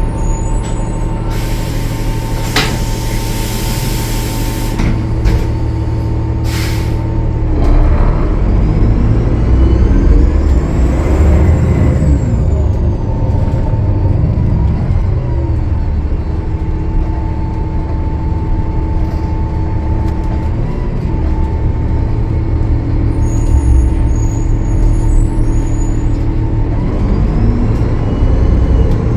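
Diesel drone of a Gillig Low Floor bus's Cummins ISL9 engine, with a long loud air hiss about a second and a half in and a shorter one near seven seconds. After about eight seconds the engine revs up and back down, with a high whistle rising and falling as it pulls.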